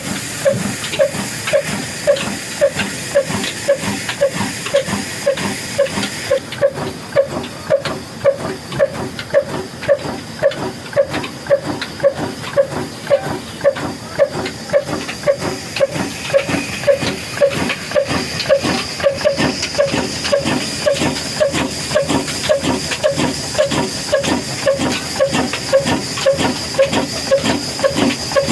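Old Ruston stationary engine running at slow speed, its exhaust chuffing in a steady, even beat of about two puffs a second over a hissing background.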